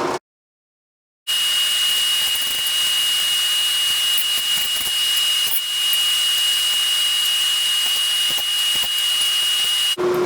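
Forge running: a steady rushing hiss with a high, even whine. It cuts in after about a second of dead silence.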